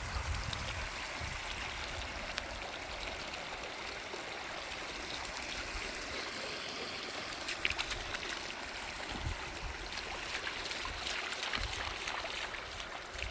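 Shallow river flowing and trickling over rocks, a steady rushing with a few small splashes or clicks in the second half.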